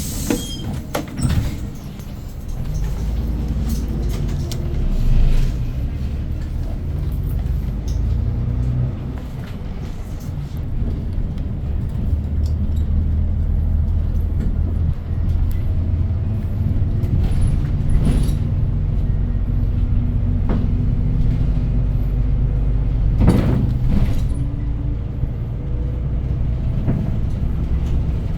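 City bus heard from inside the cabin: a low engine drone that rises and falls as the bus speeds up and slows, with a few knocks and rattles of the body, the loudest about two-thirds of the way through.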